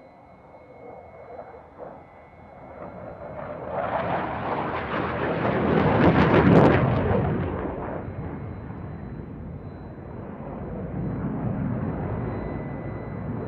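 An aircraft making a low pass in a flying display. Its roar swells over a few seconds, peaks about six and a half seconds in, then fades away.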